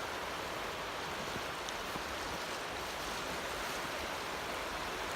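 Steady rush of the Neversink River running high and fast with rainwater and melted snow.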